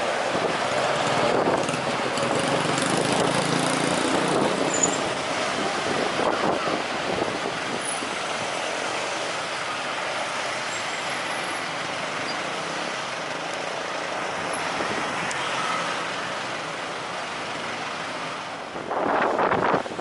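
Jet airliner engines during a landing, a steady rush that is loudest in the first few seconds and slowly fades as the aircraft moves away. Near the end, wind gusts buffet the microphone.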